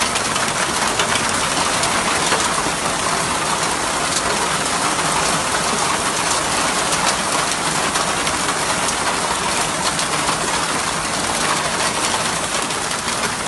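Heavy hail and rain pelting down: a dense, steady hiss of stones and drops striking surfaces, with many sharp ticks of individual impacts.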